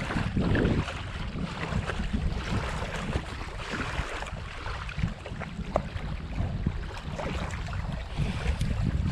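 Wind blowing across the microphone: a steady, low, gusting noise, with scattered small clicks and rustles over it.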